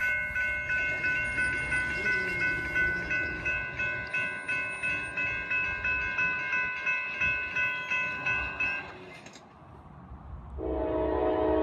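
A bell dings steadily at about two and a half strikes a second and stops about nine seconds in, as at a train's approach. Near the end, a freight locomotive's air horn blasts loudly in a sustained chord.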